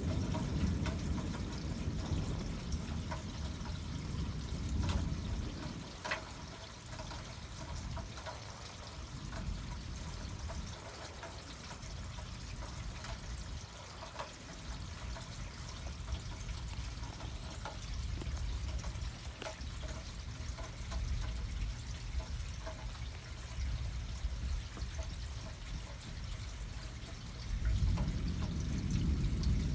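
Rain falling steadily in a thunderstorm, with scattered sharp drip-like ticks. A deeper low rumble comes through in the first few seconds and again near the end.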